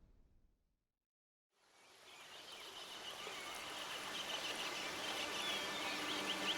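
The sound fades to silence, then rainforest ambience fades in: a steady hiss with many short, high chirps and whistles from wildlife.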